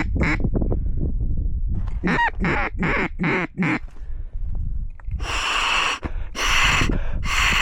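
A mallard-style duck call blown in a quick cadence of quacks, each note dropping in pitch, then three longer, raspier and louder blasts near the end. Wind rumbles on the microphone throughout.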